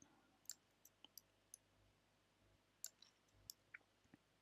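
Faint, irregular clicks of computer keys being pressed, about ten over a few seconds.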